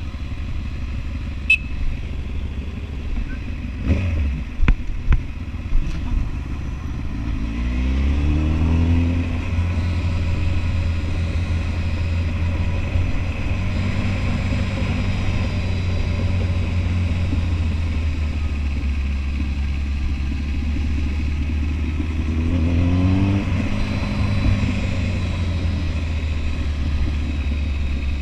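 Kawasaki Ninja ZX-10R inline-four engine under way. A few sharp knocks come about four to six seconds in. The engine then rises in pitch as it accelerates, runs steadily at speed, and rises again a few seconds before the end.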